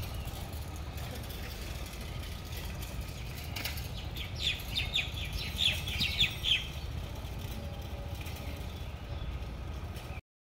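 A bird calls a rapid run of high chirps in the middle, over a steady low rumble. The sound cuts off abruptly near the end.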